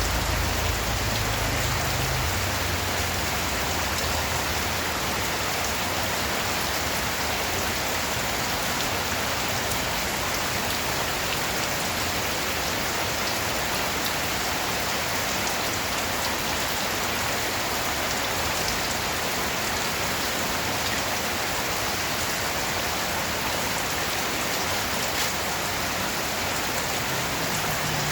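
Steady rain falling, an even hiss of many drops with a few sharper drops now and then. A low rumble underneath fades away in the first couple of seconds.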